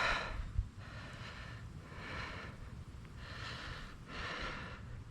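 A person breathing close to the microphone, soft hissing breaths about once a second, over a low rumble.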